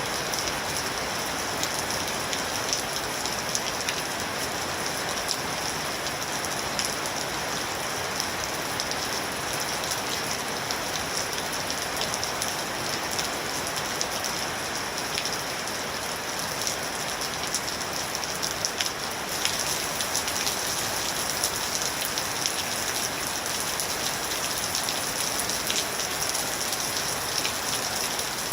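Steady rain falling, with individual drops ticking on a surface through the hiss; it grows a little louder about two-thirds of the way in.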